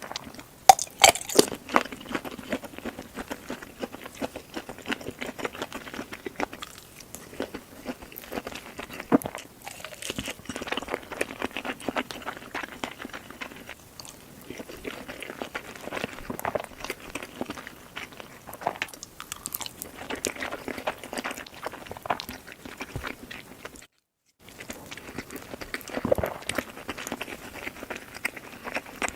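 Close-miked eating: a person chewing and crunching food with wet mouth sounds and many sharp clicks, breaking off for a moment about three-quarters of the way through.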